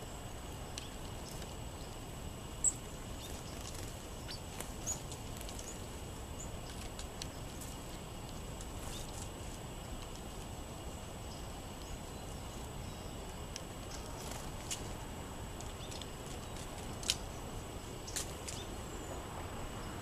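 Steady outdoor background noise with a few short, high bird chirps scattered through it, the loudest about three seconds in and two more near the end.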